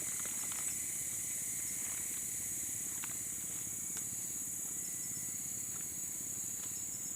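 Steady high-pitched chirring of insects, crickets or cicadas, with a few faint clicks.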